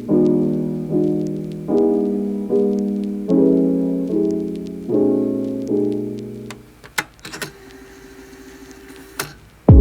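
Soft solo piano music, chords struck in a slow steady rhythm, fading out about two-thirds of the way through. A few sharp light clicks follow in the quieter stretch.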